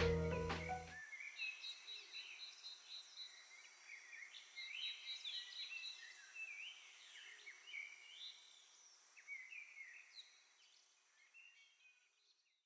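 Faint birdsong: short chirps and whistled notes over a low hiss, fading out near the end. A music track cuts off about a second in.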